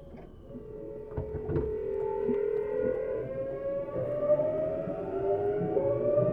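Tokyu 7700 series electric train pulling away from a stop, heard from inside car Deha 7801: a couple of knocks as it starts, then the GTO-VVVF inverter and traction motors whine in several tones that rise steadily in pitch and grow louder as the train accelerates.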